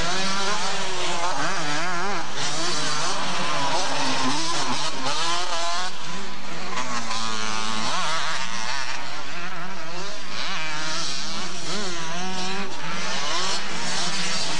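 Several motocross bikes racing, their engines revving up and down over one another with constantly rising and falling pitch.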